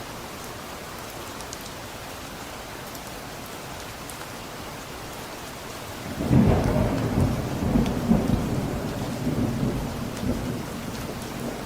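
Steady rain falling, with a clap of thunder about halfway through: a sudden deep rumble that rolls on for several seconds and fades back under the rain.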